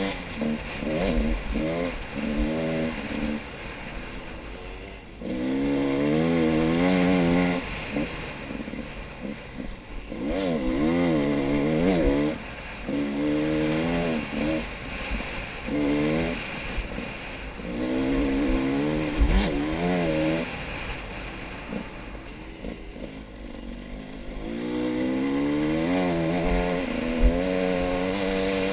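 A motor vehicle engine revving up and down in repeated bursts of one to three seconds, with gaps between.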